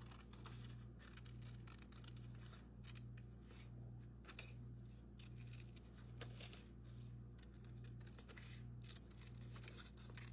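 Scissors snipping faintly and irregularly, cutting out a shape from craft material, over a low hum that swells about twice a second.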